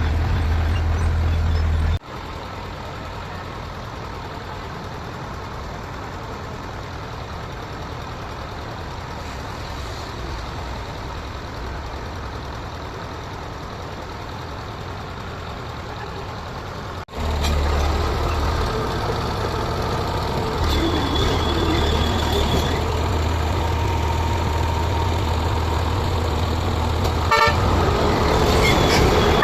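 Heavy diesel engines of construction machines running steadily. The sound drops suddenly and comes back twice, and a vehicle horn sounds briefly about two-thirds of the way through.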